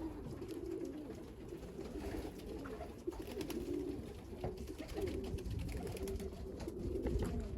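Racing pigeons cooing, a continuous low warbling of several birds at once, with scattered light clicks.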